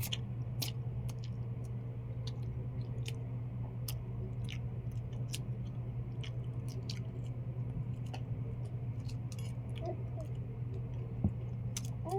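Close-up chewing and mouth sounds of someone eating balut: irregular soft smacks and clicks over a steady low hum, with one louder knock near the end.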